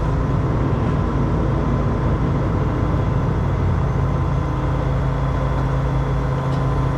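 Heavy tow truck's diesel engine running steadily with a deep, even hum while it drives the hydraulic winch during a recovery pull.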